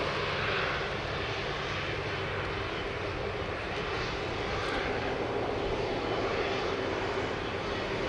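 Jet engines of a Cathay Pacific Airbus A330-300, Rolls-Royce Trent 700 turbofans, running loud and steady with a faint whine held under the rush of noise.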